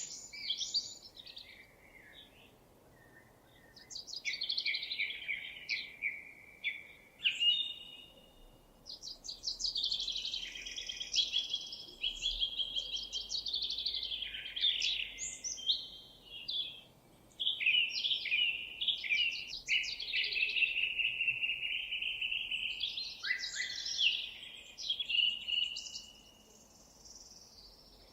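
A songbird singing long, varied phrases of rapid trills and warbling notes, in several bouts of a few seconds each separated by short pauses.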